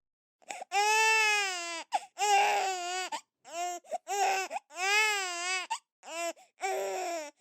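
Recorded baby crying: about half a dozen wavering wails with short breaks between them.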